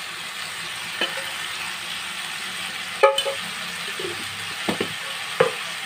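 Chicken sizzling as it sautés in a stainless steel pot, with a few clinks of a stirring utensil against the pot, the loudest about three seconds in.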